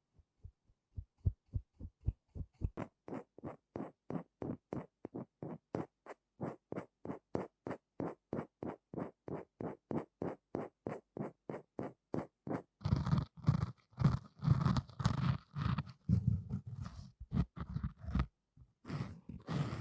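Close-miked trigger sounds: an even run of small clicks or taps, about four a second, for about twelve seconds, then louder scratching and crunching.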